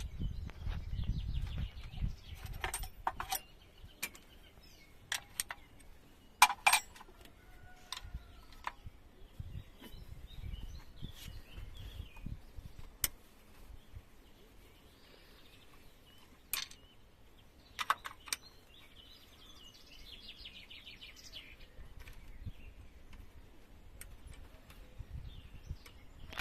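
Scattered sharp metallic clinks and knocks of spanners and metal fittings during the teardown of a KAMAZ truck diesel engine, with birds chirping faintly about twenty seconds in.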